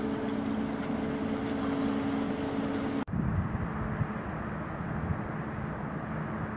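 Steady hum of a river cruise ship's engines under wind and water noise, then an abrupt cut about three seconds in to a different recording of low rumbling wind buffeting the microphone.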